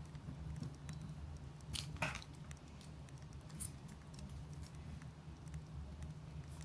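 Campfire crackling: scattered sharp pops and snaps over a low steady rumble, with one louder brief rustle about two seconds in.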